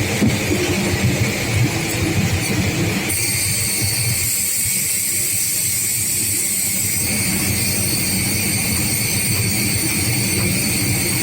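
BRDM-2's GAZ-41 petrol V8 running steadily, with its compressor likely pumping up the tyres. About three seconds in, a steady high hiss joins the engine sound.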